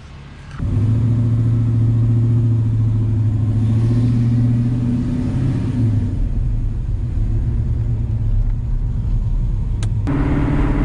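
Car V8 engine running under way, a deep steady note that comes in abruptly about half a second in and shifts slightly in pitch around six seconds. Near the end it cuts to a different, higher engine note.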